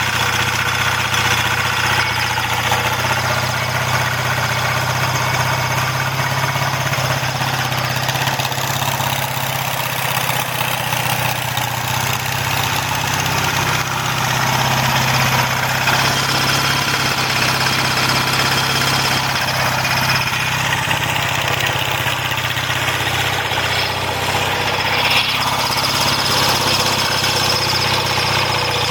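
1979 Yamaha XS650's air-cooled parallel-twin engine idling steadily.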